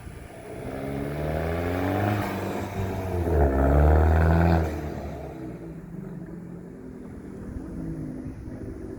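Fiat 500 Turbo's 1.4-litre turbocharged four-cylinder with an aftermarket intake and exhaust, revving up in two pulls, loudest about halfway through, then dropping back. A short blip of revs follows near the end.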